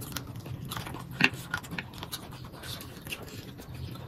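Close-up eating sounds: chewing with scattered small wet mouth clicks and smacks.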